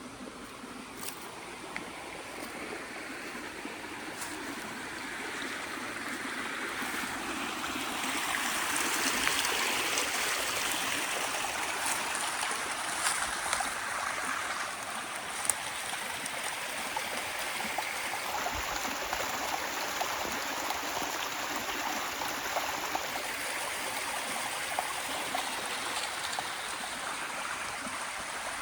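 Running water, a steady rush like a stream, growing louder over the first several seconds and then holding, with a few faint clicks.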